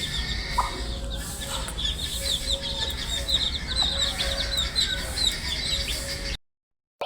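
Many baby chicks peeping at once: a dense stream of short, high, falling chirps over a faint low hum. Near the end the sound cuts out to silence for about half a second.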